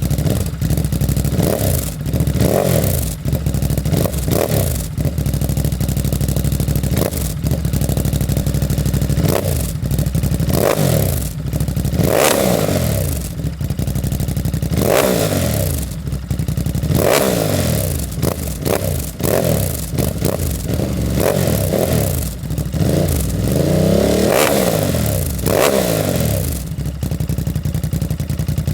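Ducati Monster SP's 937 cc L-twin engine through a Termignoni race exhaust, revved up and dropping back again and again, more than a dozen times, with short sharp pops scattered throughout.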